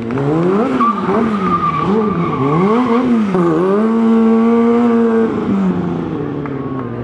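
Stunt motorcycle engine revving up and down several times, then held at high revs for about a second and a half before dropping back.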